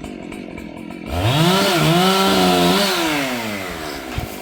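Gasoline chainsaw idling, then about a second in revving up to high speed and holding there for about two seconds before the engine note falls back toward idle. A short knock comes near the end.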